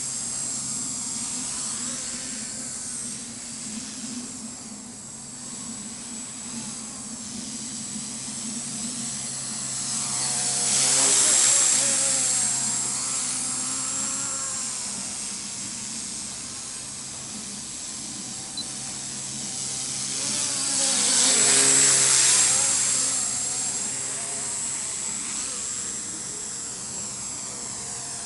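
MasterCP micro RC helicopter with brushless 3800KV main motors in flight: a steady high motor whine over a low rotor hum, swelling louder twice, about a third and about three quarters of the way through.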